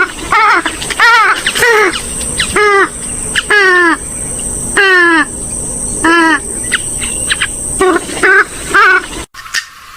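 Gallinule (swamphen or moorhen type waterbird) calling in a rapid series of short, loud nasal calls, each falling in pitch, about one or two a second. A steady high insect whine runs underneath.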